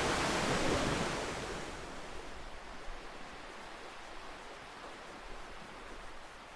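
Ocean waves washing on a shore: the wash of a wave fades away over the first two seconds, leaving a quiet steady hiss of water.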